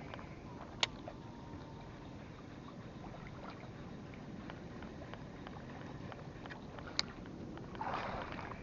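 Faint, steady water lapping against a small fishing boat, with two sharp clicks about a second in and near the end.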